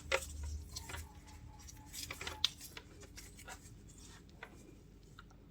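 Faint clicks and taps of handling at a workbench, with a low hum in the first second just after the power supply is switched on.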